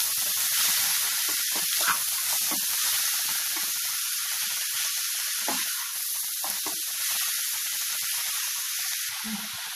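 Grated carrot and onions frying in hot oil in a pan, a steady sizzling hiss that eases slightly near the end.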